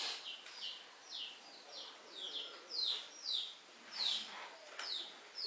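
A bird chirping over and over: short high chirps that slide downward, about two a second, with a few sharp clicks among them.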